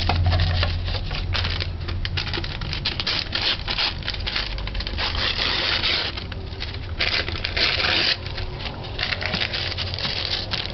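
Kitchen handling sounds: a run of small clicks, taps and scrapes, with two short spells of rustling past the middle, over a steady low hum.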